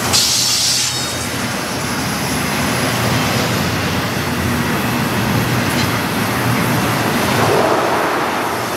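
Double-stack container train rolling past: a steady rumble and clatter of steel wheels on rail from the well cars, with a brief high-pitched squeal from the wheels near the start.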